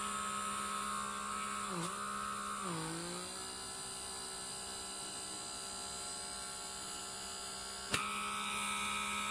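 Handheld rechargeable pore vacuum's suction motor running with a steady electric hum. Its pitch dips briefly about two seconds in and again around three seconds, then holds steady; a single click sounds near the end.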